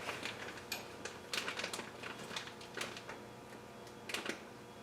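Scattered light clicks and knocks, about half a dozen, from small engine parts such as timing chain guides and bolts being handled and set down.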